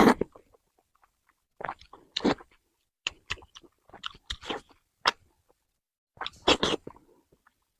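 Close-miked eating of braised pork: chewing and biting in short wet bursts with quiet gaps between, the loudest right at the start and again near the end.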